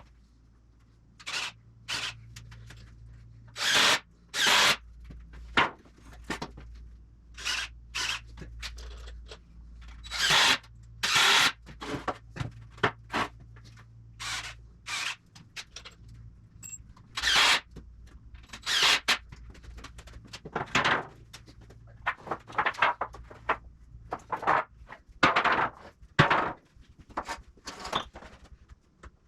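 Carpentry on a 2x4 wooden frame, nailing crosspieces in: a string of short, sharp knocks at uneven intervals, with a low steady hum under the first half that stops about halfway.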